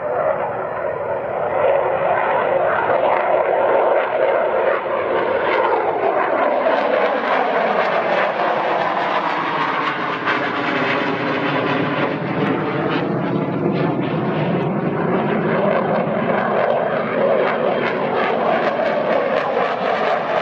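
Fighter jet flying past, its jet engine noise swelling over the first two seconds and then staying loud with a slow sweeping, phasing whoosh as it passes.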